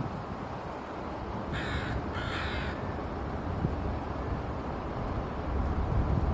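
Two short, harsh bird calls in quick succession, about a second and a half in, over a steady low rumble.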